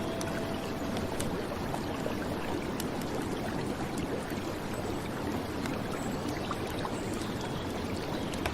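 Steady rushing water of a flowing river with rain falling on it, an even wash of noise with faint scattered drop ticks.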